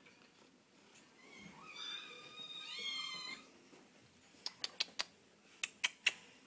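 A cat meowing once, a long high-pitched meow that rises near its end. Several sharp clicks follow about a second later.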